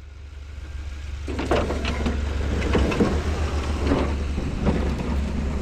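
Snowplow vehicle's engine running close by with a steady low hum; about a second in, a broad rushing, scraping noise rises over it.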